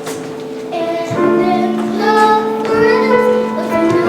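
Children's voices singing long held notes over an instrumental accompaniment in a stage musical.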